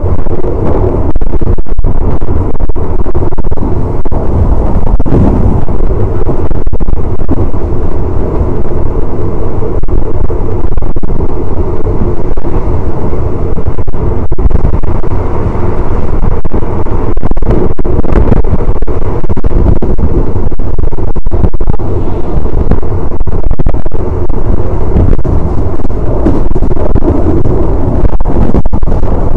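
Wind buffeting the microphone at the open window of a moving third-class train carriage, over the steady rumble of the train running on the rails, loud throughout.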